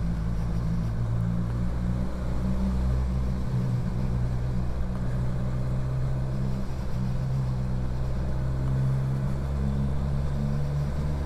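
Motorcycle engine running steadily at low revs on the move, its low hum shifting slightly in pitch as the throttle changes.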